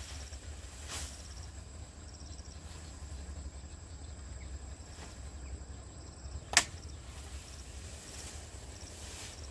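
Outdoor ambience with faint insects chirping in short repeated trains over a steady high whine and low rumble. A few soft knocks sound throughout, and one sharp knock or click, the loudest sound, comes about two-thirds of the way in.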